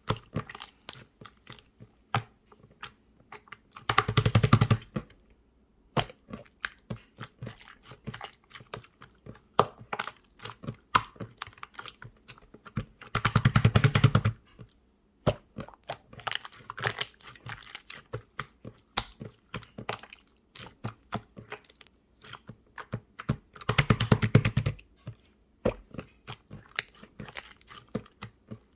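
Clear slime being pressed and poked by hand, giving scattered sticky clicks and pops. Three times, it breaks into a second-long run of rapid crackling pops.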